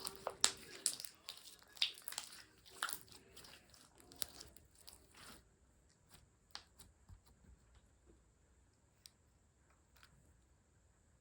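Water jelly crunch slime being squeezed and pressed by hand, giving crackling, crunching pops. The pops are dense for about the first five seconds, then thin to scattered single clicks.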